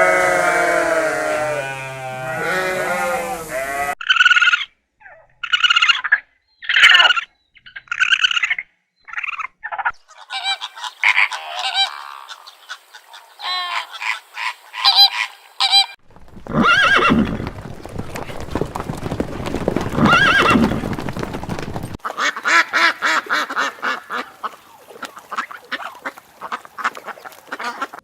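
A string of different animal calls spliced one after another, changing abruptly every few seconds: a pitched call first, then a series of short separate calls, then rattling, clicking and rougher calls.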